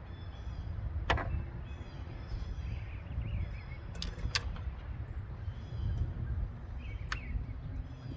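A few sharp clicks and knocks of hands working under the hood, around opening the oil filler cap, over a steady low outdoor rumble with birds chirping.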